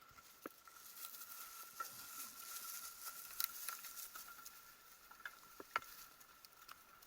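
Faint rustling hiss with scattered sharp clicks and crackles, over a thin steady high tone.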